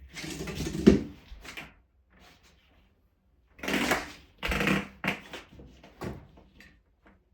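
Ditra-Heat heating cable being pressed into the studs of the plastic uncoupling membrane. Plastic rustles and scrapes in bursts, with sharp clicks: a loud one about a second in, then two scraping bursts around the middle and a few single clicks near the end.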